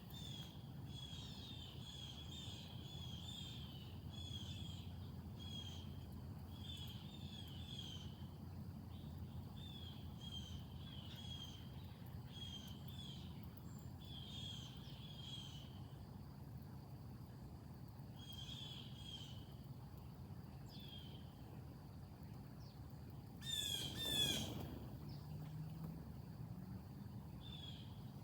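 A songbird singing short phrases of a few quick high notes, repeated about once a second, over a steady low background rumble and a faint steady high tone. About two-thirds of the way through, a much louder harsh bird call breaks in.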